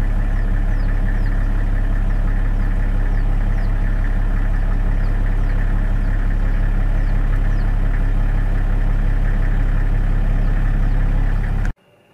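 A vehicle engine idling steadily, with faint short high chirps repeating about once a second above it. The engine cuts off suddenly near the end.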